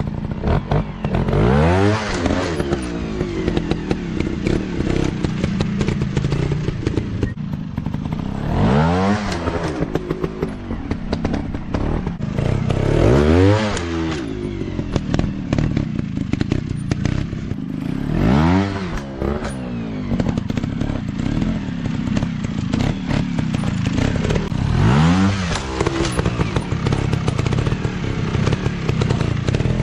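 Motocross dirt bike engines running on a trail ride, the pitch rising and falling about five times as the throttle is worked, with clattering knocks throughout.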